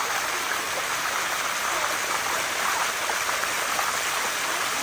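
Water of a waterfall cascading over rock, a steady even rush.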